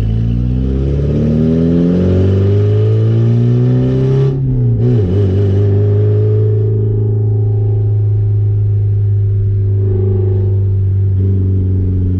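1989 Porsche 944's 2.7-litre four-cylinder engine, with a straight-pipe exhaust, revving up under hard acceleration: the note climbs for about four seconds. It breaks off briefly as the car shifts up, then pulls on at a lower, steadier pitch.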